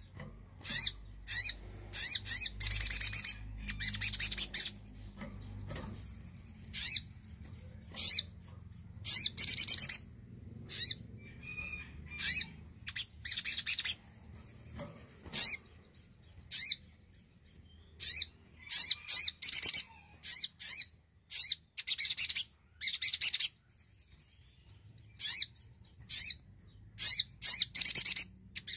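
A spiderhunter (sogok ontong) calling: many short, sharp, high chips and several bursts of rapid trilling notes, with a faint thin high note held between some of the calls.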